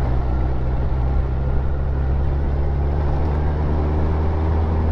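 Motorcycle engine running steadily under way, heard through a tank-bag microphone with road and wind noise; its note shifts slightly about three seconds in.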